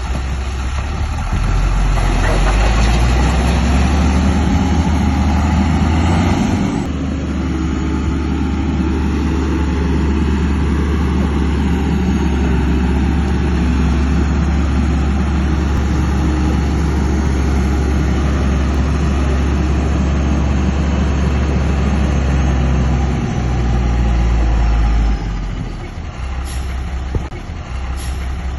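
Heavy construction-machine diesel engine running steadily, growing louder about two seconds in and dropping away about twenty-five seconds in.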